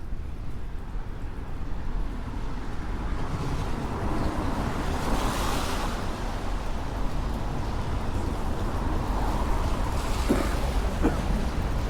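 City street traffic on a rain-wet road: a car passes with tyre hiss swelling up and fading about five seconds in, and another goes by near ten seconds, over a steady low rumble of traffic.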